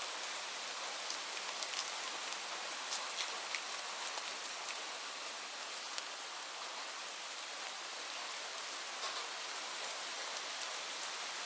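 Steady rain falling on leaves: a constant hiss with scattered sharper ticks of single drops striking.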